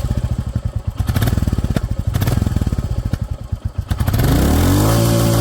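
Royal Enfield Classic 350 Reborn's single-cylinder engine idling through its stock exhaust with an even low thumping beat. About four seconds in, the throttle is opened: the revs rise quickly and hold higher.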